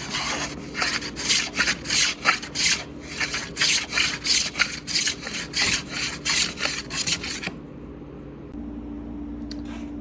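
Hand tool worked back and forth on wood: a run of rough, evenly spaced strokes, about three a second, that stops about seven and a half seconds in.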